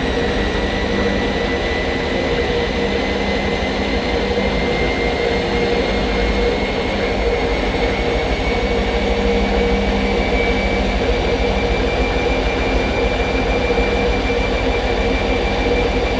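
Hoover Nextra HNL662 washing machine spinning at high speed, a steady whirring rush with a whine that creeps slowly upward in pitch as the drum speeds up.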